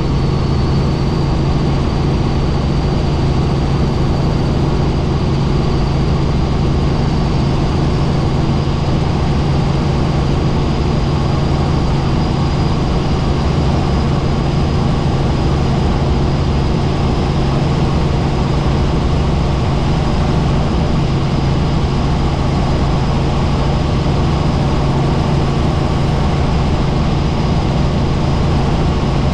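Helicopter engine and rotor running steadily in flight: a loud, even low drone with a thin high whine above it.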